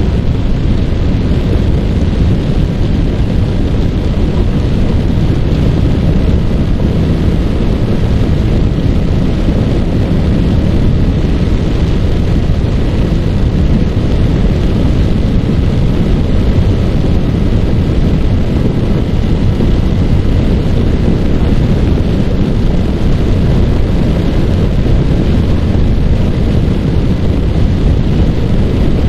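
Yamaha R15 single-cylinder motorcycle cruising at a steady speed, its engine note faint under heavy wind rushing over the microphone as a deep, steady rumble.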